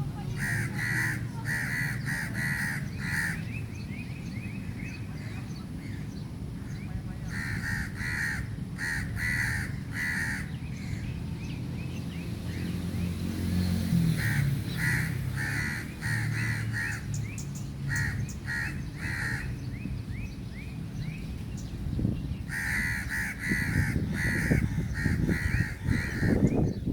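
Birds calling in bouts of quick, repeated, harsh calls, several calls a second, over a steady low rumble.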